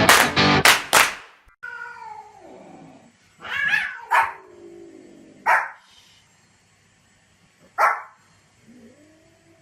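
A dog barking rapidly for about a second, then after a cut, single sharp barks a few seconds apart with drawn-out whining calls between them.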